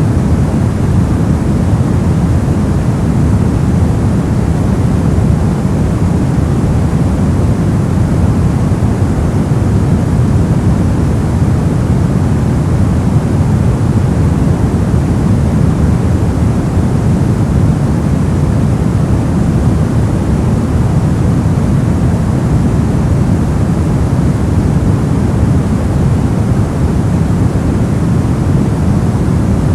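A steady, unchanging noise track sold as white noise for sleep. It is a deep, even hiss with most of its weight in the low end, nearer to brown noise than to flat white noise.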